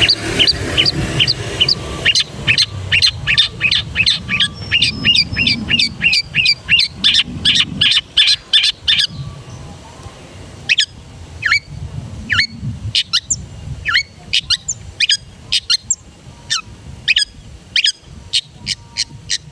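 Long-tailed shrike (cendet) singing: a fast run of sharp, repeated notes, about four or five a second, for the first nine seconds, then a slower series of sharp descending notes.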